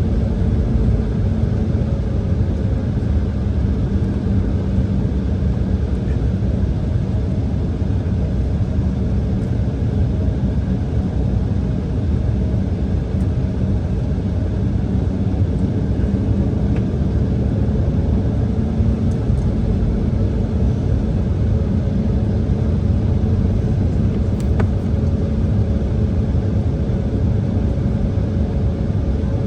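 Embraer E170's GE CF34 turbofan engines running at a steady low power, heard inside the cabin as a constant rumble with a low hum and no change in pitch or loudness.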